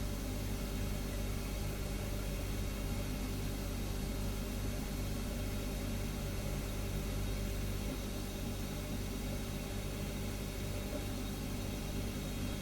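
Refrigerator humming steadily: a low, even hum with a steady hiss above it.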